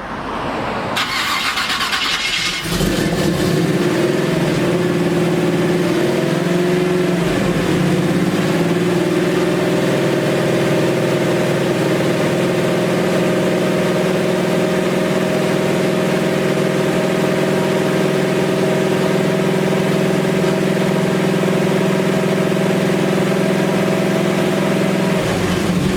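Chevy C10 engine cranked over by the starter for about two and a half seconds, then catching and running steadily, its speed wavering briefly a few seconds after it fires. The engine is on its break-in run on a fresh camshaft. It stops just before the end.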